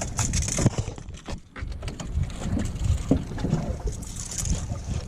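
Small fishing skiff drifting: water slapping against the hull and wind buffeting the microphone, with scattered clicks and knocks from handling aboard.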